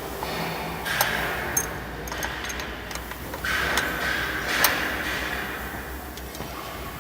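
Wood crusher (sawdust machine) running on a test, with two surges of grinding noise that fade away and sharp knocks as pieces of wood go through, over a steady low hum.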